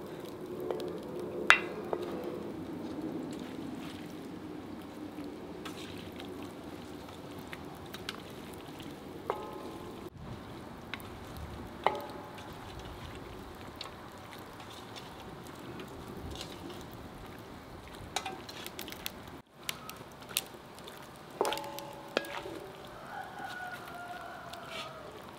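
Butter sizzling in a large iron wok over a wood fire, stirred and scraped with a wooden spoon. Diced raw beef goes into the hot fat from a metal bowl and is stirred in. A few sharp clicks and short ringing metallic clinks come from the spoon and bowl against the pan, the clinks mostly near the end.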